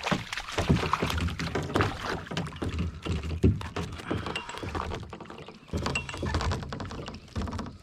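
Irregular thumps and knocks in a kayak as a hooked trout is landed and thrashes.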